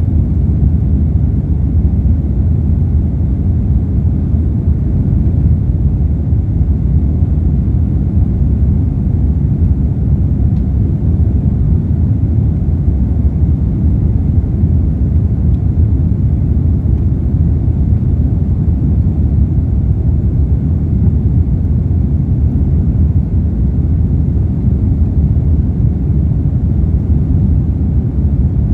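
Steady low rumble of an airliner in flight, engine and airflow noise as heard inside the cabin, unchanging throughout.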